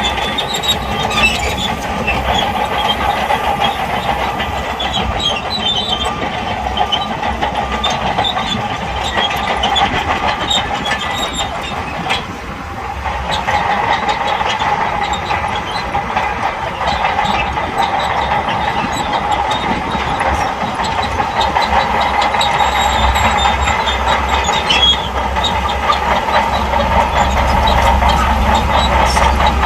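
Crawler bulldozer's diesel engine running under load while its steel tracks clank and clatter, with a deeper engine rumble swelling near the end.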